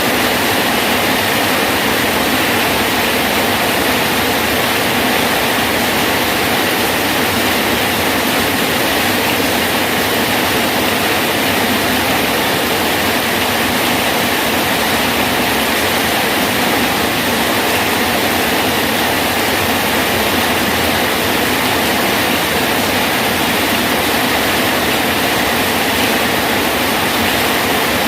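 Steady heavy rain falling, a dense even hiss that holds without a break.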